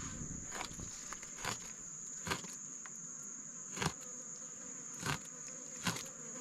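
Insects buzzing with a steady high-pitched drone, with six sharp clicks or taps at uneven intervals of about a second.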